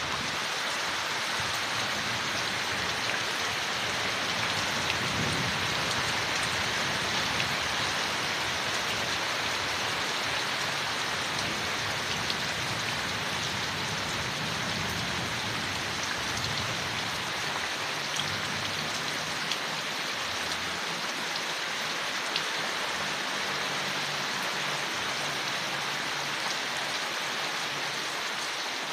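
Steady rain falling on leaves, an even hiss with scattered individual drop ticks.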